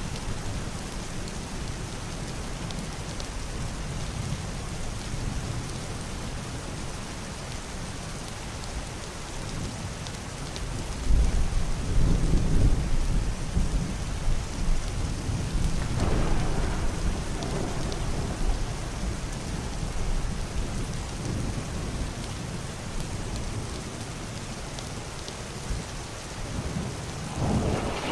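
Heavy, steady rain on a wooden roof and window glass, with deep, muffled rolls of thunder. The loudest roll starts about eleven seconds in and lasts several seconds, weaker ones follow, and a short one comes near the end.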